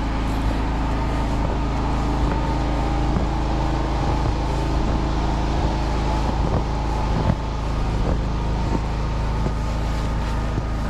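Firman T07573 tri-fuel generator running steadily, a constant engine hum with a few held tones and no change in speed.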